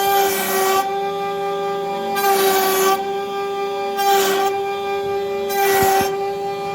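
CNC router spindle running with a steady high whine, its bit cutting wood in recurring surges of rasping hiss every second and a half or two.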